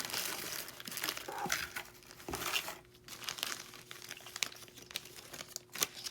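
Packaging crinkling and rustling as it is handled, in irregular bursts with a few short sharp clicks.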